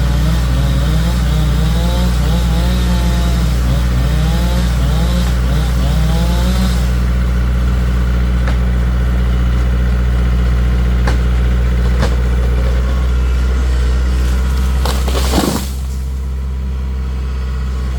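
Engine of a wooden excavator on the water running steadily with a deep hum. About fifteen seconds in there is a brief hissing burst, and the engine settles a little quieter.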